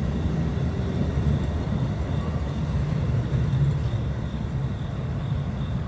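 Amtrak Northeast Regional passenger train passing, a steady low rumble.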